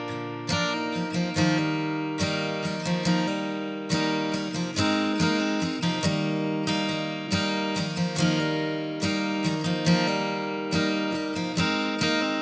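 Background music: acoustic guitar picking and strumming chords, the notes ringing out between strokes.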